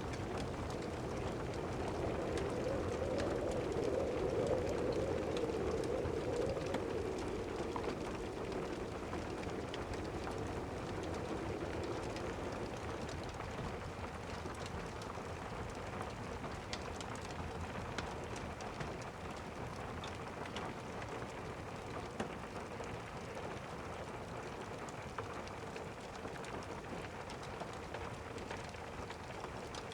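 Steady rain, with a broad low swell in the sound over roughly the first ten seconds and a few faint scattered ticks.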